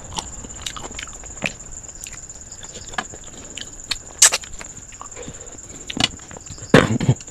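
Close-miked eating by hand: wet chewing and lip smacks over rice and chicken curry, with fingers mixing rice on a steel plate. Sharp clicks and smacks come throughout, loudest a little past the middle and again near the end.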